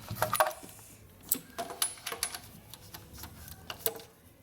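Irregular metallic clicks and taps of a small wrench turning, as a timing-chain tensioner is screwed into the engine.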